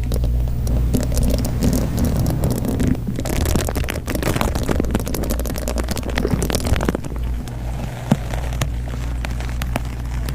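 Dense, irregular crackling over a steady low hum.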